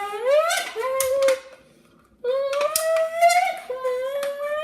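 A child's voice imitating a Lamborghini engine: two long revs whose pitch dips and then rises, with a short quiet gap between them and a few sharp clicks.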